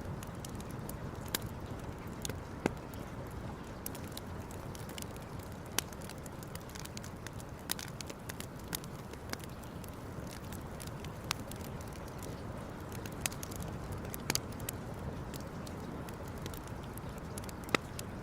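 Wood campfire crackling, with irregular sharp pops every second or so over a steady low rush.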